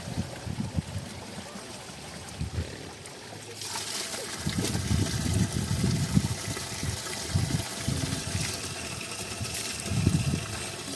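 Spring water running and trickling, with irregular low splashing and sloshing. The running water gets louder about three and a half seconds in.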